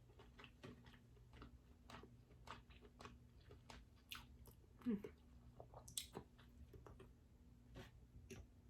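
Close-miked, quiet wet chewing and lip smacks of someone eating king crab meat in garlic butter sauce: many small mouth clicks throughout, a louder short sound with a brief falling pitch about five seconds in and a sharp click about a second later.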